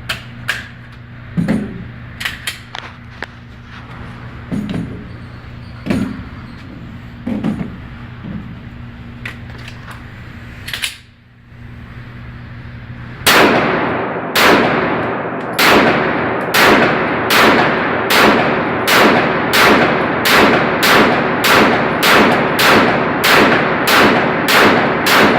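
Scattered clicks and clanks of pistol handling while a magazine that won't lock in is being worked, then about halfway through a long string of evenly spaced 9mm pistol shots, roughly one every 0.7 seconds, each ringing out.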